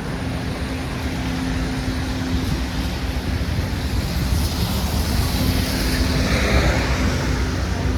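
City street traffic: a steady rumble of engines with a low hum, swelling in the second half as a vehicle passes close by.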